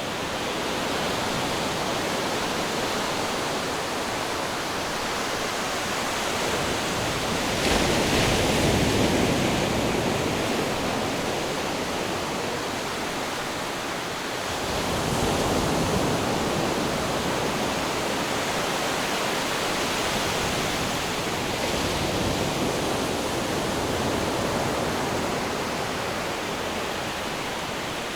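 Ocean surf: a steady wash of waves, with a wave breaking louder about eight seconds in and another about fifteen seconds in.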